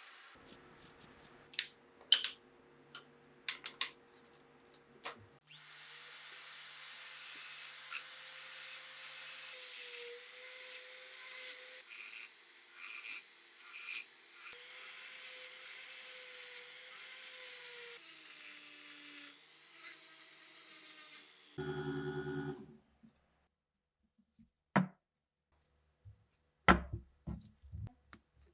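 A small electric power tool running against the work in repeated short bursts for about sixteen seconds, with a steady motor pitch under a hiss of grinding or sanding. Before and after it come scattered clicks and taps of tools and parts being handled.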